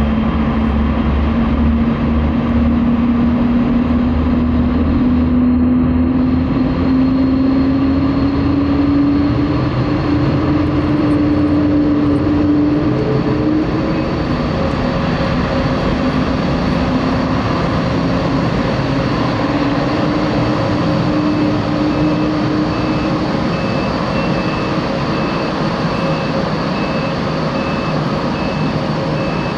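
Boeing 767-300ER jet engines running as the airliner taxis out, a loud steady rush with a whine that slowly rises in pitch over the first twenty seconds or so. Faint, evenly spaced high beeps begin near the end.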